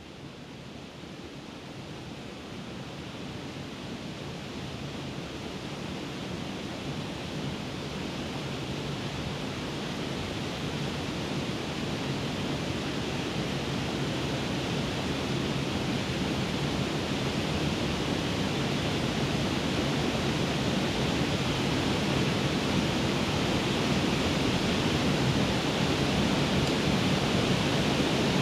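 Waterfall rushing: a steady wash of falling water that grows gradually louder throughout.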